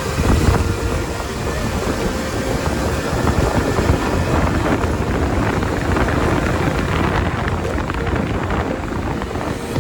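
Wind rushing over the microphone of a motorcycle rider on the move, with the KTM Duke 250's engine running underneath.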